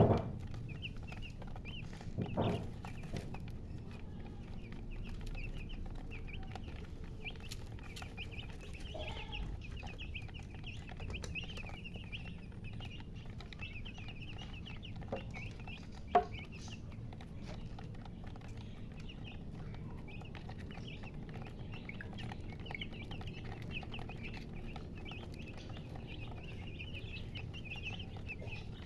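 Chicks peeping continuously, many short high chirps overlapping without a break. A few knocks sound among them, the sharpest about sixteen seconds in.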